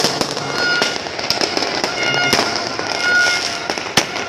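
Fireworks going off thick and fast: many sharp bangs over continuous crackling, with short steady tones sounding between them every second or so.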